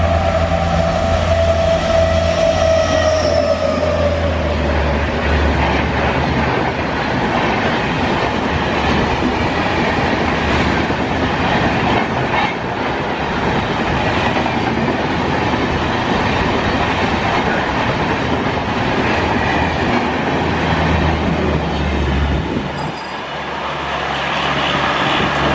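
Indian Railways train passing: its horn sounds at the start with a slight drop in pitch, then the coaches clatter past over the rail joints as a continuous rumble.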